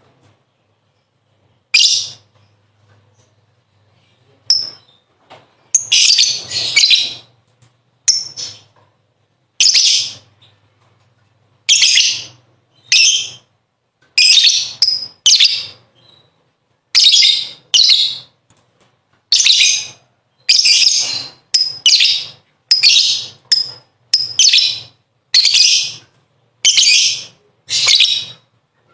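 Lovebird giving its ngekek chatter: a run of short, shrill, harsh bursts about a second apart, coming faster and closer together in the second half.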